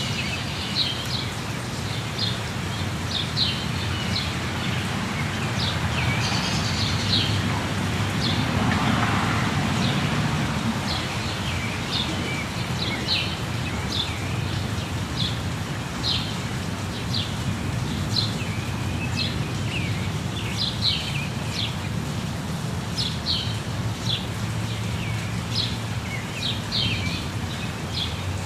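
Steady rush of a waterfall with birds chirping over it, short high chirps repeating throughout.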